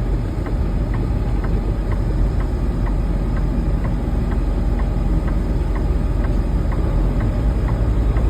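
Turn signal clicking steadily at about two and a half clicks a second inside a big truck's cab, over the low steady drone of the truck's engine and tyres on the road.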